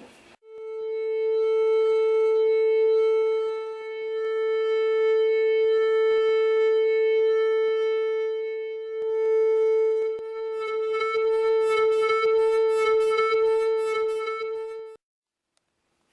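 A single steady tone a little below 500 Hz with bright overtones, held for about fourteen seconds and cutting off abruptly, played to set the painting's canvas vibrating. From about ten seconds in a rattling buzz rides on the tone.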